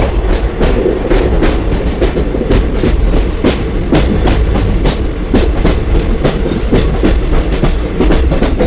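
Passenger train running along the track, its wheels clattering over the rail joints in a steady stream of quick clicks over a constant low rumble.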